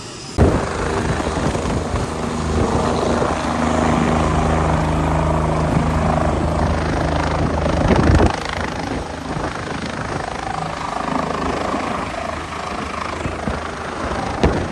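A helicopter's engine and rotor running steadily, starting suddenly and loudest for the first eight seconds or so, then a little quieter.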